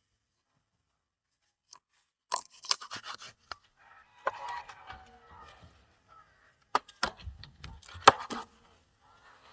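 Knife cutting up raw chicken: scraping and crunching cuts with some rustling, then a few sharp knocks near the end.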